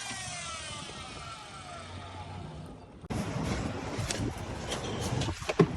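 A power saw winding down after a cut, its whine falling steadily in pitch and fading. About three seconds in, the sound switches abruptly to a rougher bed with scattered knocks and clatter of boards being handled.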